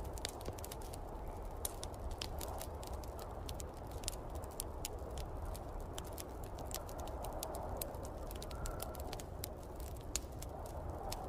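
Fireplace wood fire crackling with frequent irregular pops, over the steady blowing of snowstorm wind whose tone wavers up and down.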